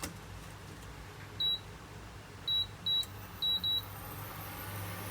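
Five short, high electronic beeps from a kitchen appliance's control panel, as its buttons are pressed: one beep, then after a second four more in quick succession.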